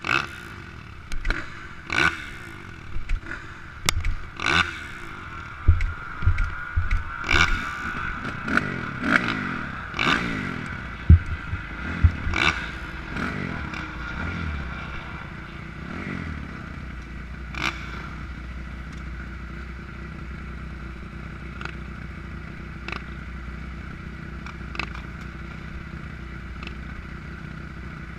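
Dirt bike engine running with some rises in pitch, under a string of close knocks, scrapes and clatter from handling near the microphone during the first half. After that the engine settles to a steady idle with only an occasional click.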